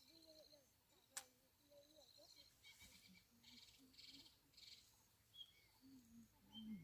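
Near silence: faint outdoor ambience with scattered faint high chirps and a single sharp click about a second in.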